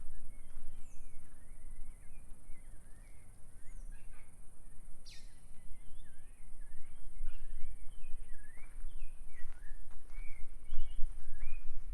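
Several small birds chirping and singing in short rising and falling phrases throughout, over a low steady rumble.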